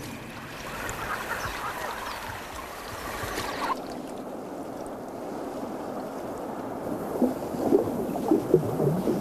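Moving water with splashes, sloshing steadily and then splashing more sharply a few times near the end.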